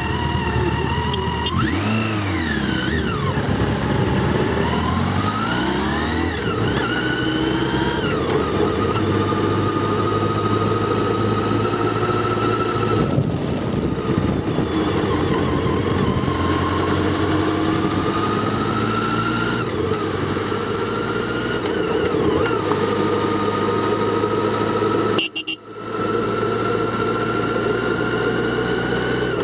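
Vehicle engine running on the move. Its revs rise and fall with gear changes in the first several seconds, then settle into a steady note that climbs slowly. The sound drops out briefly near the end.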